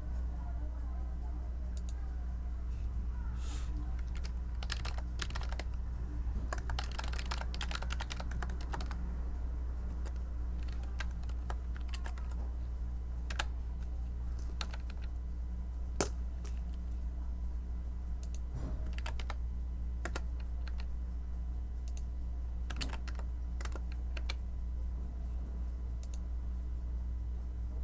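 Typing on a computer keyboard: a quick run of keystrokes about seven seconds in, then scattered single key presses, over a steady low hum.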